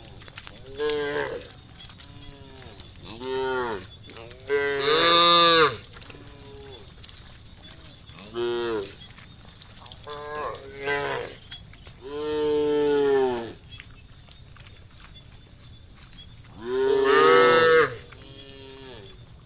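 Cows in a herd mooing, about eight separate calls of varying length, the longest and loudest ones near the middle and near the end, over a steady high hiss.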